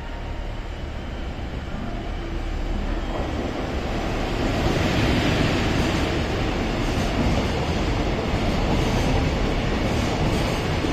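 Container freight train hauled by an EF210 electric locomotive passing at speed. The rumble of wheels on rail builds to its loudest about four to five seconds in as the locomotive goes by, then holds as a steady rush while the container wagons stream past.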